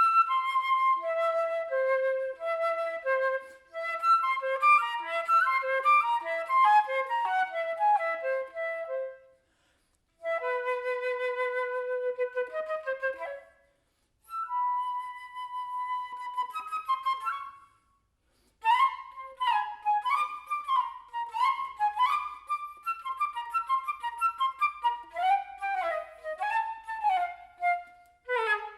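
Flute playing a single melodic line: quick runs of notes, then long held notes broken by short pauses, then passages of sliding, bending notes in the last third.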